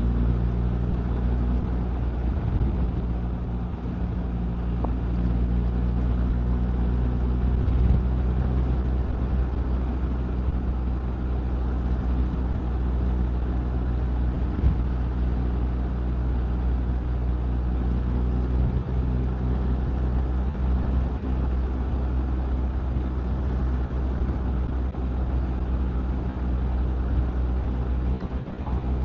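Motorcycle cruising at a steady speed: a continuous engine drone with wind and road rush.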